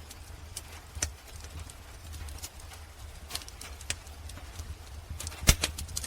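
Wood fire crackling in a fireplace: irregular sharp pops and snaps, the loudest about five and a half seconds in, over a steady low rumble.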